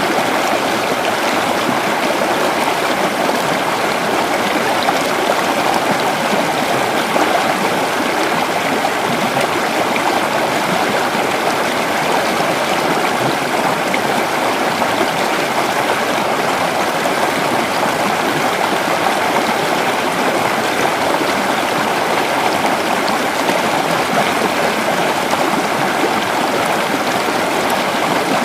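A creek flowing steadily over rocks: a constant rushing and babbling of running water.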